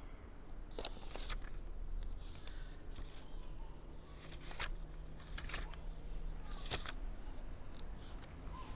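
Sporadic rustles and light clicks from something being handled, over a low steady hum of room noise.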